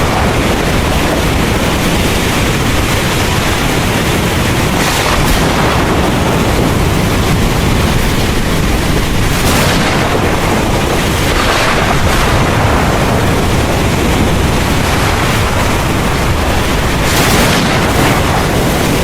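Heavy rain pouring steadily over a deep, continuous thunder rumble, with a few brief louder hissing swells every few seconds.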